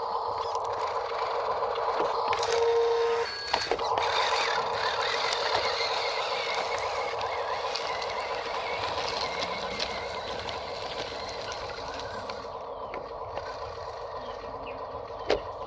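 Radio-controlled Huina 1582 mining dump truck's electric motor and gearbox whining steadily as it drives. A few clicks and knocks sound over it, and the whine slowly gets quieter toward the end.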